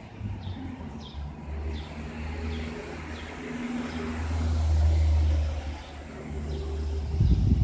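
Low rumble of a motor vehicle's engine nearby, swelling about four seconds in and again near the end, with a bird's short high chirps repeating over it.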